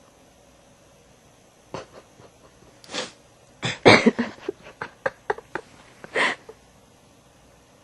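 A few breathy puffs and snorts from a person, with a quick run of short ticks in between.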